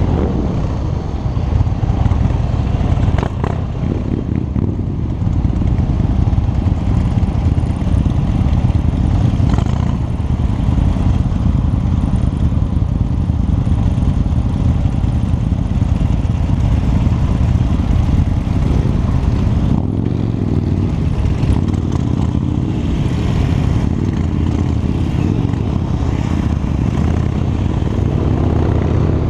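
Harley-Davidson V-twin motorcycle engine running steadily under way, mixed with a dense low rush of wind noise on the microphone.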